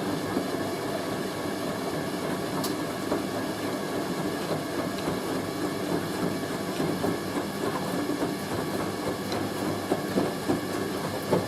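Hoover A3060 Electronic 1100 front-loading washing machine in its intermediate spin with a heavy sofa throw inside: the motor whirs steadily and the drum rumbles with a rhythmic clatter and small knocks as the load tumbles.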